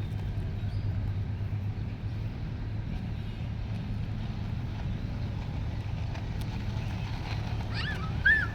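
Steady low rumble of motor traffic, with a brief high-pitched sound near the end.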